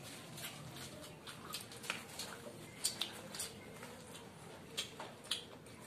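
Close-up chewing and lip-smacking of people eating egg rolls: irregular wet mouth clicks, a few of them sharper and louder around three seconds in and again near five seconds.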